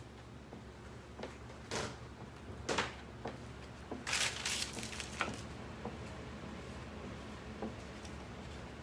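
A squeegee scraping chalk paste across a stencil transfer in several short strokes, the longest and loudest about four seconds in.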